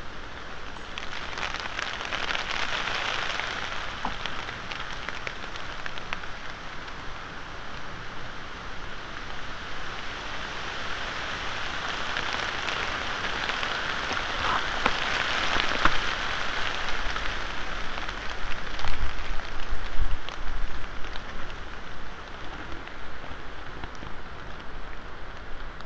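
Rain on forest leaves with wind: a steady hiss of rain, sprinkled with single drops ticking. The hiss swells twice. A few low thuds come about three-quarters of the way through.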